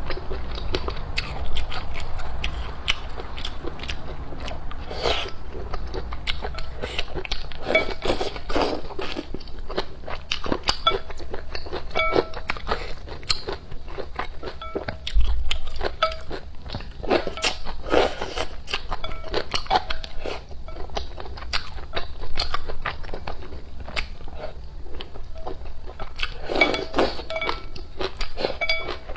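Close-miked eating sounds: a person chewing and biting food, with many small wet mouth clicks and some crunches scattered irregularly throughout.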